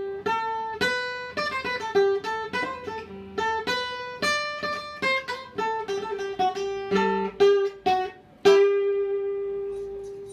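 Guitar picked note by note in a quick melody, with one pitch coming back again and again, ending on a single note left to ring out for about two seconds.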